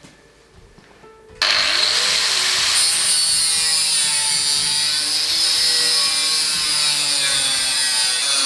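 A power tool working sheet steel, starting suddenly about a second and a half in and then running steadily with a high whine.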